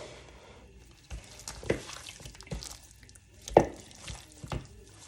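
Raw seasoned chicken pieces being handled in a bowl: irregular wet squelches and knocks, about six in all, the loudest about three and a half seconds in.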